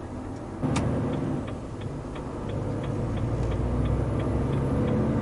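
Truck engine heard from inside the cab, getting louder after a click under a second in, with a turn-signal indicator ticking evenly about two to three times a second.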